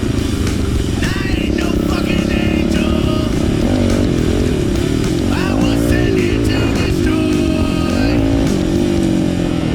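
Pit bike engine running and revving up and down while riding, with music playing over it.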